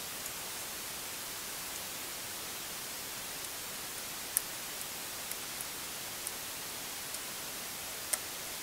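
Steady hiss of background recording noise with a few light, sharp clicks, the clearest two about halfway through and near the end, from laptop ribbon-cable connectors and small parts being handled and snapped back into place.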